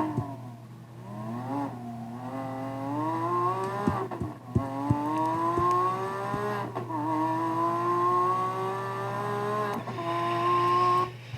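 Lamborghini Aventador LP780-4 Ultimae's 6.5-litre naturally aspirated V12 accelerating hard through the gears. The pitch climbs in each gear and dips briefly at each of several upshifts.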